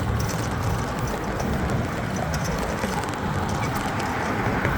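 Steady wind rush on the microphone and road noise while riding a bicycle, with a few faint clicks.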